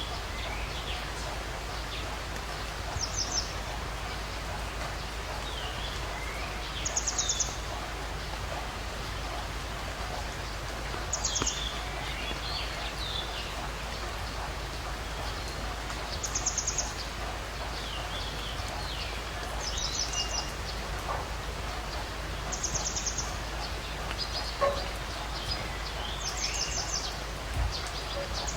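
Birds calling outdoors over a steady background hiss. A short, high, rapid trill recurs about every four seconds, with scattered lower chirps between.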